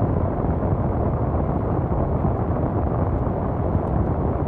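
A car's air conditioner blowing a steady rushing noise inside the cabin, mostly low and even.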